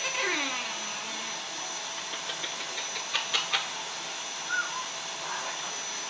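Young Amazon parrot calling: one long call that falls steeply in pitch at the start, then a few sharp clicks and a short high chirp, over a steady hiss.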